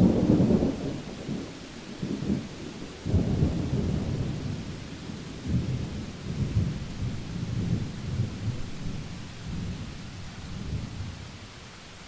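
A thunderclap over steady rain. It breaks suddenly, swells again about three seconds in, then rolls and rumbles for several seconds before fading back into the rain's hiss near the end.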